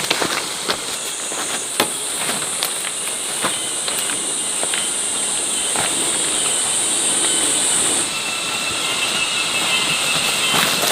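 Insect buzzing as one steady high drone, which stops suddenly about eight seconds in. Scattered light clicks and rustles sound under it.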